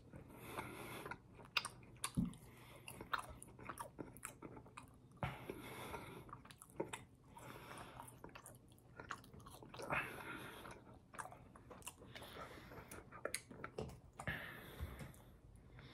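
Close-miked chewing and biting of a double-patty fast-food burger and french fries, with many small wet mouth clicks.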